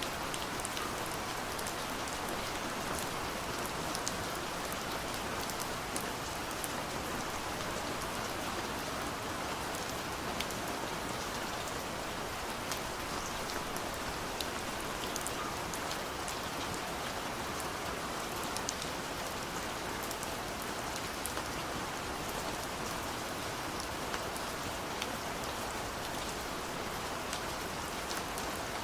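Steady gentle rain falling on a window, a constant hiss with scattered individual drop ticks.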